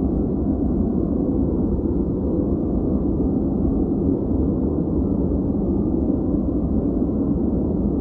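Steady noise track sold as white noise, deep-sounding with little hiss, even and unbroken throughout.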